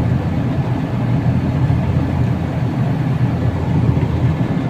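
Carrier air conditioner running with a steady low hum, its compressor back in operation alongside the condenser fan while it is being charged with refrigerant.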